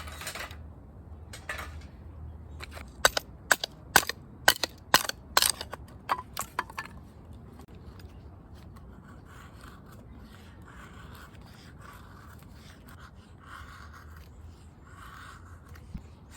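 A quick run of about ten sharp knocks, then a steady series of short scraping strokes, about one a second.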